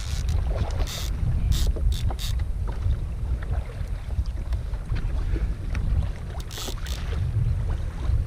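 Wind buffeting the microphone on a kayak at sea, a steady low rumble, with a few short splashes of water against the hull about one to two seconds in and again near seven seconds.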